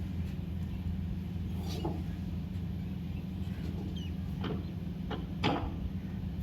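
Cockatiel husking seeds: a few sharp little clicks and cracks, mostly in the second half, over a steady low hum.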